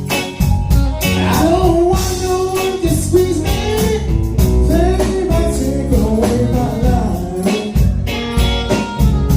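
Band music with a singer: a sung melody over guitar and drums with a steady beat.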